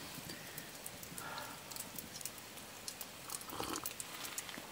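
Chicken pieces sizzling faintly in a cast-iron skillet: a steady hiss scattered with tiny crackling pops.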